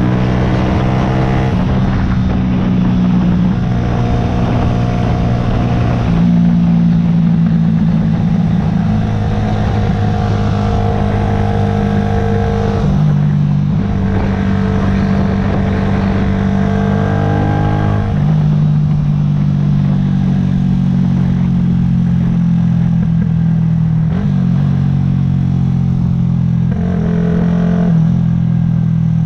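2009 Yamaha YZF-R125's single-cylinder four-stroke 125 cc engine running while ridden, its note holding steady pitches that step up or down several times.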